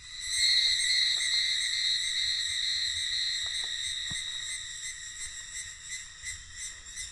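A cicada bursts into a loud, steady, high-pitched buzzing song that slowly fades. A few faint knocks sound underneath.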